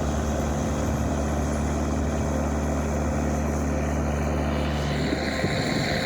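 A large engine running steadily with a low, even hum; the hum drops away about five seconds in, leaving wind noise.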